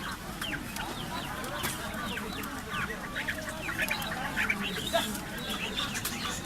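Many caged birds chirping at once: a dense, continuous tangle of short, overlapping chirps that fall in pitch.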